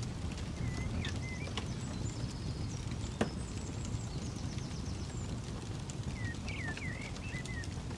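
Wood campfire crackling over a steady low rumble, with one sharp pop about three seconds in. Birds chirp in two short bursts, with a high thin trill between them.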